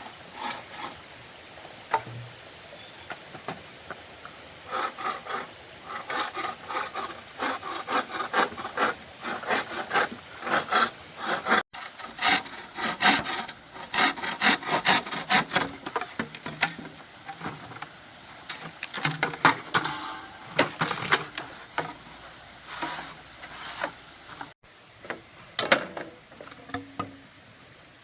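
Hand saw cutting wood in runs of quick, rhythmic strokes, over a steady high-pitched insect chorus.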